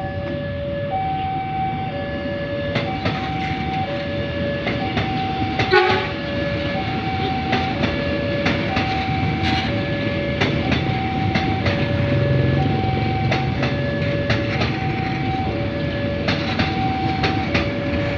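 Railway level-crossing warning alarm sounding its alternating two-tone signal, each tone about a second long, while a train passes with a steady rumble and regular clacks of wheels over the rail joints. A single louder clank comes about six seconds in.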